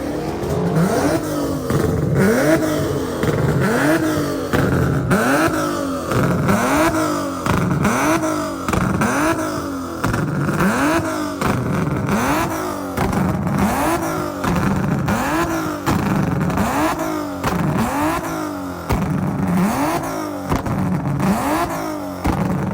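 Car engine revving up and falling back again and again in a steady cycle, about once a second.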